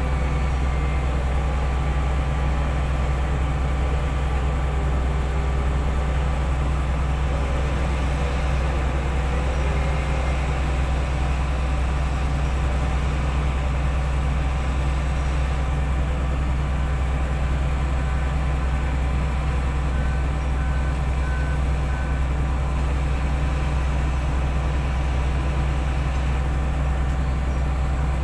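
Heavy-equipment diesel engines running steadily at a constant, deep drone. A few faint short beeps come about two-thirds of the way through.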